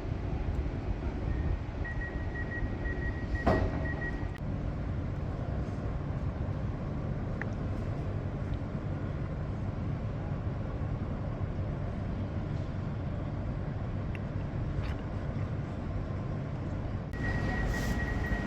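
Passenger train running with a steady low rumble. A high, rapidly pulsing beep sounds from about two seconds in to about four seconds, and again near the end. A single sharp knock comes about three and a half seconds in.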